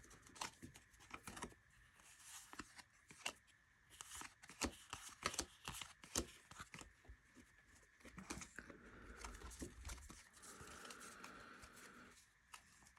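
Baseball trading cards being handled and sorted by hand: faint, irregular flicks and rustles of card stock, with occasional soft sliding sounds.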